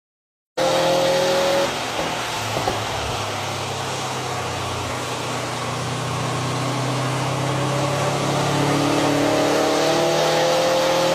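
Subaru WRX STI's turbocharged flat-four revving under load on a chassis dynamometer, with its quad exhaust. It comes in loud and eases back about a second in, then the engine note climbs steadily in pitch and loudness toward the end as it pulls up through the revs.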